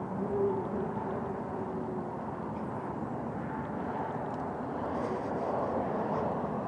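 Steady rushing wind and road noise from riding a Zero S electric motorcycle, which makes almost no motor sound. A faint steady tone sounds in the first two seconds, and the rushing grows a little louder near the end.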